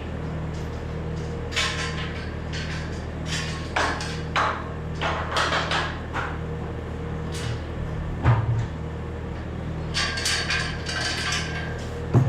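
An engine runs steadily under a string of short metallic clanks and rattles, which come thickest in the first half and again about ten seconds in.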